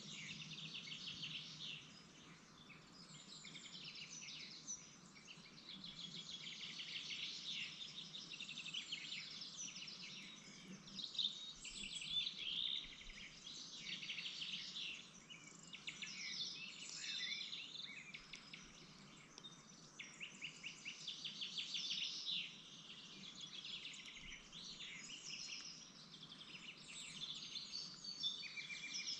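Continuous high-pitched, rapid chirping and trilling of small birds, rising and falling in loudness, over a low steady hum.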